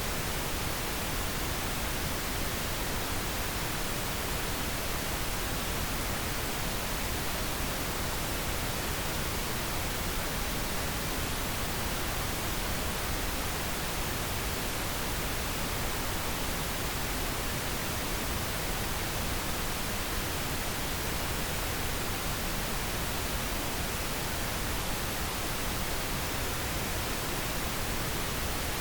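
Steady pink noise: an even, unchanging hiss across the whole range, used as a sleep aid.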